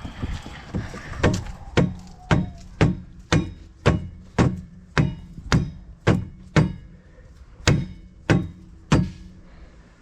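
Mallet blows on a metal part of a Geringhoff corn head, about fourteen steady strikes at roughly two a second, each with a faint metallic ring. The blows start about a second in and stop near the end.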